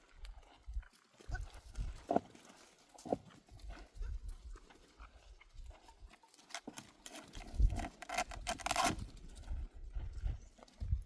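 An animal calling, with a longer call about eight seconds in, among scattered knocks and low rumbles.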